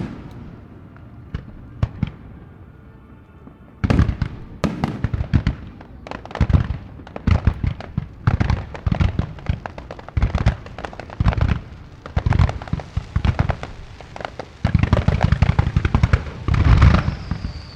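Fireworks display: a few scattered bangs, then about four seconds in a rapid barrage of aerial shell bursts with deep booms and crackle, growing densest near the end.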